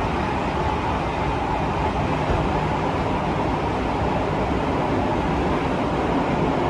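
Steady running noise heard inside a Tokyo Metro 15000 series subway car: the rumble of wheels on rail and car body noise as the train runs between stations in the tunnel.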